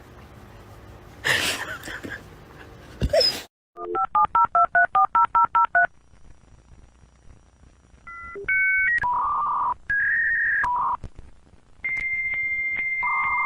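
Telephone keypad tones: a fast run of about a dozen short two-note beeps, as if a number is being dialled, then a few longer beeps at changing pitches and a steady held tone near the end. Before them comes a brief noisy burst and a click, cut off suddenly.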